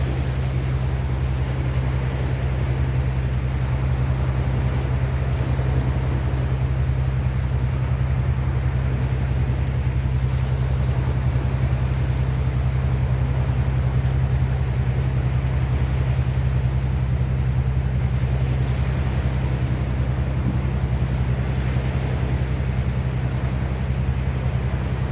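Steady rush of wind and sea water, under a constant low hum like an engine drone.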